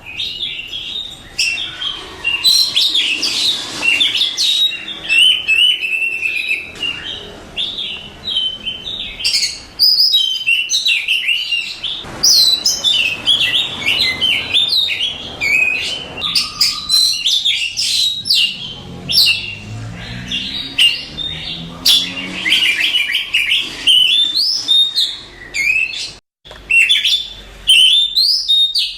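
Oriental magpie-robin (kacer) singing a continuous, varied song of rapid high whistles and chirps, with a very short break near the end.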